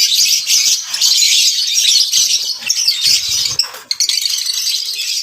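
A flock of lovebirds chattering: a loud, dense stream of overlapping high-pitched chirps and squeaks.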